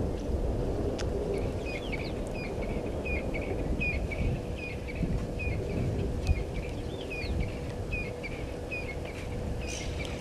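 A bird calling a short, high chirp over and over, about three a second, starting about a second and a half in, over a steady low rumble and a faint steady hum.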